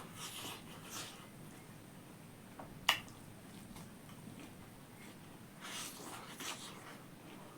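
A person chewing and eating pork: scattered wet mouth noises, a sharp click about three seconds in, and a cluster of chewing sounds near the end.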